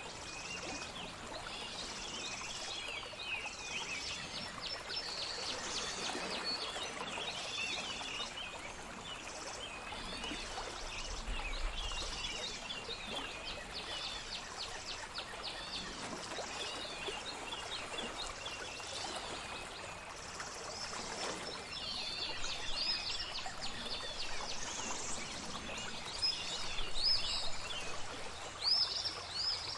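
Many songbirds chirping and trilling over a steady trickle of flowing water, with a few louder chirps near the end.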